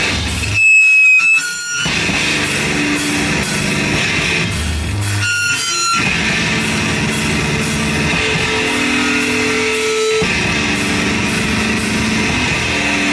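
Live rock band playing loud, heavily distorted electric guitar with drums. About a second in the wash of sound drops away briefly under a loud high steady tone, and a shorter gap with high tones comes around five seconds in.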